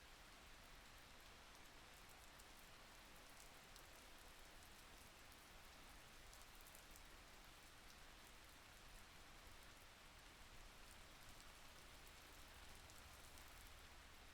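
Faint, steady rain falling, an even hiss with scattered soft drop ticks.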